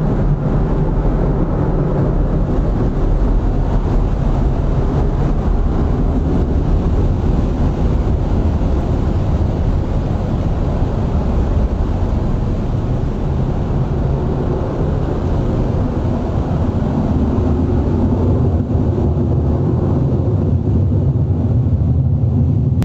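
A J-20 fighter's twin jet engines at full afterburner during takeoff: a loud, steady rumble.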